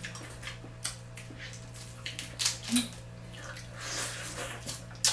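Close-up eating sounds of seafood: wet slurping and smacking in irregular bursts, with a few sharp clicks, over a steady low hum.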